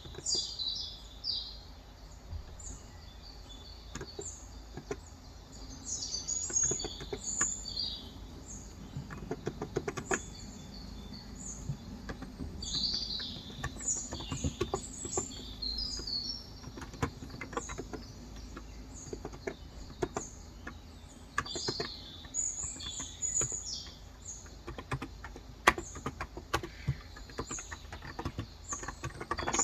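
Small birds chirping, short calls repeated throughout, over bursts of typing on a Cox Endeavor 35 g electrostatic capacitive (Topre-style) tenkeyless keyboard, quick runs of soft key clicks that come and go.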